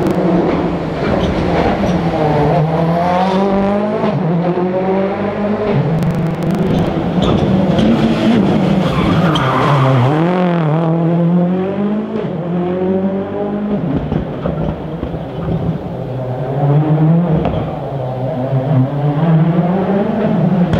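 Rally car engine revving hard on a special stage. Its pitch climbs and falls again and again as it shifts gears and lifts off for corners.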